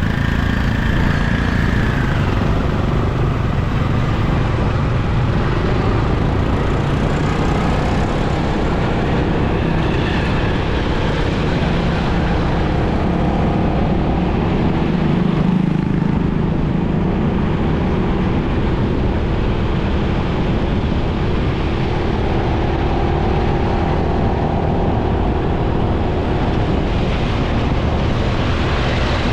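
Riding a motorcycle through traffic: a steady mix of engine and road noise from the motorcycle and the vehicles around it. Faint engine tones drift up and down as the speeds change.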